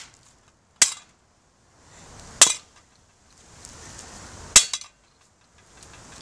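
Three sharp blows struck on a ceiling fan being smashed apart, about one and a half to two seconds apart, each with a brief clinking ring.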